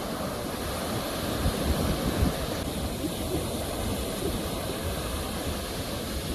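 Ocean surf: a steady rush of waves with a low rumble, swelling a little louder about two seconds in.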